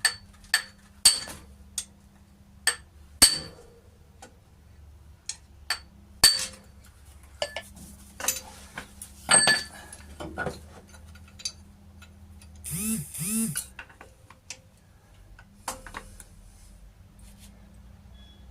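Sharp metallic knocks on a spanner set on a seized, heat-soaked fastener on a 1939 Hillman Minx side-valve engine, each knock with a short ringing tone and spaced irregularly, the hardest ones in the first half. A brief scraping rasp follows about 13 seconds in. The knocking is what frees the fastener.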